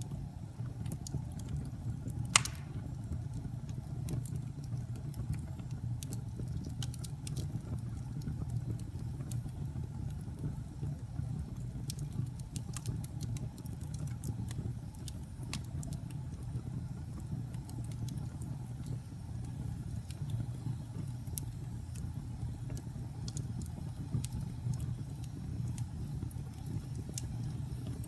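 Wood fire burning in a fireplace: a steady low rumble of flames with scattered sharp crackles, and one louder pop about two seconds in.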